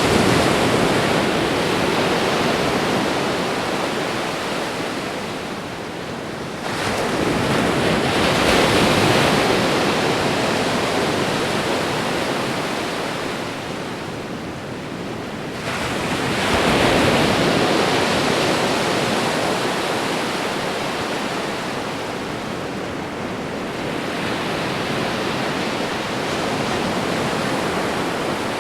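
Ocean waves breaking on a shore, a continuous surf hiss that swells in four surges about eight seconds apart, the last one weaker.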